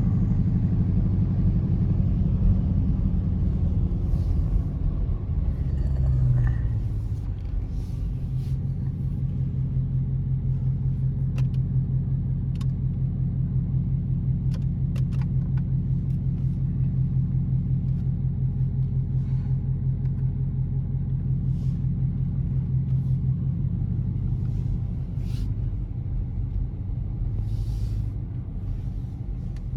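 Dodge Charger R/T's V8 engine and exhaust on the road: the note falls off over the first second or so as the car eases off, swells briefly around six seconds, then settles into a steady low drone at cruise, dipping slightly near the end before picking up again.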